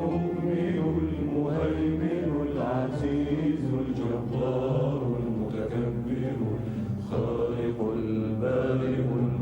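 Men's voices chanting a slow, drawn-out Arabic devotional hymn (inshad), with long, gliding held notes and a steady low tone beneath, without clear words.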